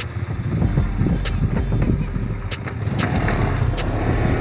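Motorcycle running on the road, with wind buffeting the microphone in a heavy, fluctuating rumble and scattered sharp clicks.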